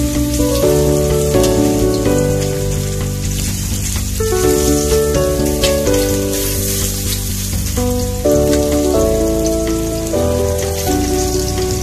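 Pork pieces sizzling in hot oil in a wok, a steady hiss with small pops scattered through it. Background music of held notes changing pitch in steps plays along with it.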